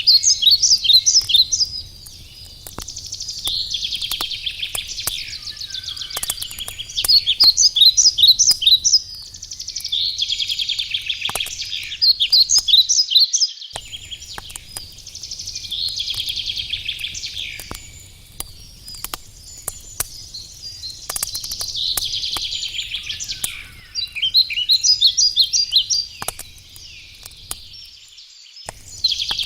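Songbird singing, repeating short phrases of trills and whistles every few seconds, over the sharp clicks and pops of a crackling wood fire.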